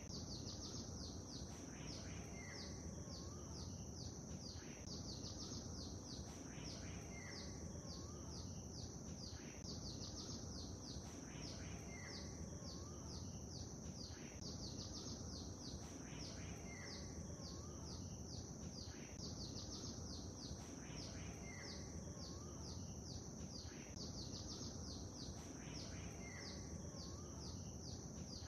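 Birds chirping and calling over a steady bed of water-like ambient noise. The same few seconds of calls repeat about every four seconds, like a short loop.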